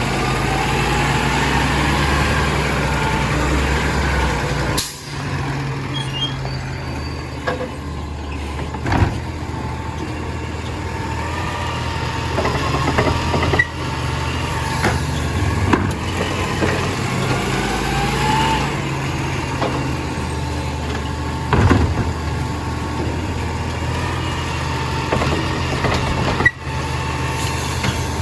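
Compost collection truck's diesel engine running steadily, with whines that rise and fall over it and scattered sharp knocks and clanks from the truck's machinery.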